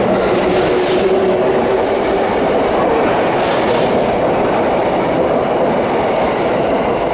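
Electric train running on the track: a loud, steady rolling noise of steel wheels on rails, with a faint held tone in the first couple of seconds.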